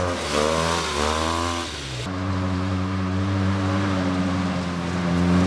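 Arctic Cat Wildcat Trail side-by-side's 700 cc engine running under throttle. Its pitch dips and climbs back in the first second and a half. After an abrupt cut about two seconds in, it runs steadily, rising slightly near the end.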